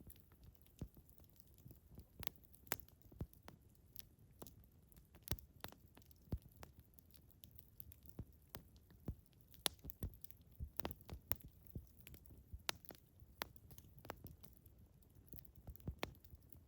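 Campfire crackling: irregular sharp pops and snaps of burning wood over a faint low rumble.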